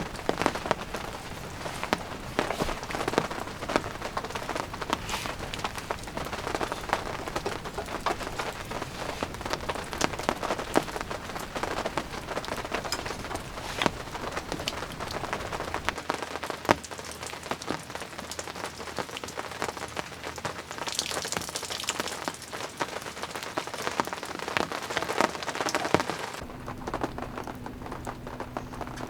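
Steady rainfall, with many individual drops striking close by. Near the end the rain sound cuts off suddenly, leaving a low steady hum.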